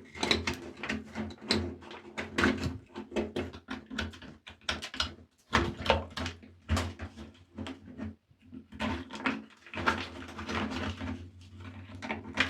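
Close-up handling and scrubbing of a small diecast toy motorcycle: irregular scratchy strokes and small clicks and taps, over a low steady hum.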